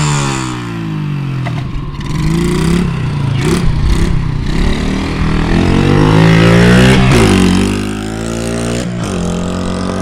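Small mini bike engine revving up and down as the bike is ridden, its pitch rising and falling several times. It is loudest about two-thirds of the way through, then drops back.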